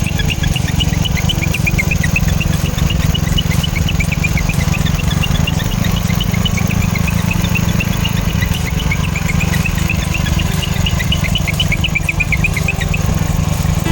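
Ride-on lawn tractor's 608cc single-cylinder OHV petrol engine running steadily with a low, even hum. Runs of short high chirps sound above it.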